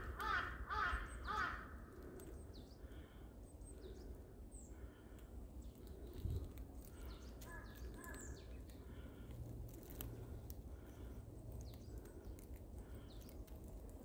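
A bird calls in a quick run of about four repeated, evenly spaced notes in the first second and a half. Faint high chirps from smaller birds follow, over a low steady rumble.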